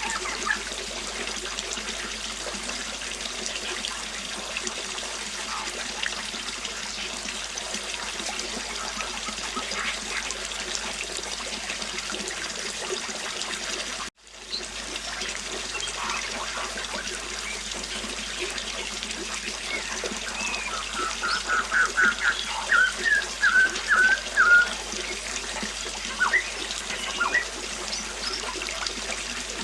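River water running steadily, with birds chirping: a quick run of repeated chirps in the second half and a few single chirps after it. The water sound cuts out for an instant about halfway through.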